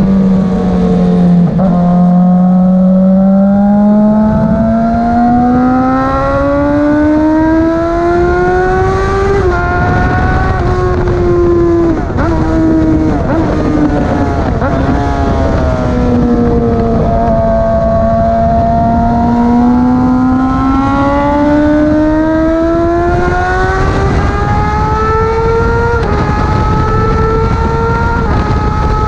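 Motorcycle engine running continuously at speed on a race track, its pitch climbing slowly, easing back down, then climbing again, with a few small jumps in pitch. A heavy rush of wind noise runs underneath.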